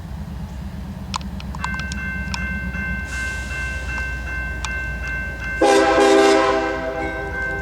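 Diesel locomotive air horn sounding one blast of about a second and a half, near the end. Before it there are steady high ringing tones with light periodic ticks, and a low rumble that stops about three seconds in.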